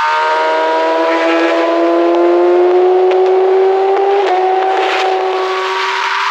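Inline-four sportbike engine at high revs, its pitch climbing slowly under steady acceleration, with a brief dip about four seconds in before it climbs on.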